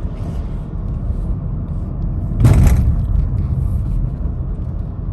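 Low engine and road rumble inside the cabin of a 5th-gen Honda City, its 1.5 L i-VTEC petrol engine easing off from high revs toward a quiet cruise. A brief louder burst comes about two and a half seconds in, and the rumble fades a little near the end.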